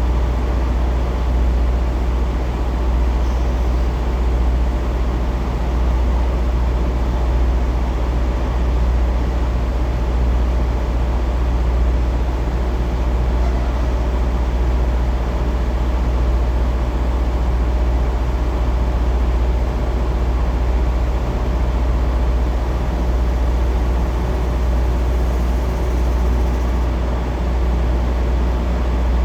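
Semi truck's diesel engine running steadily: a low, even hum with no revving or pauses.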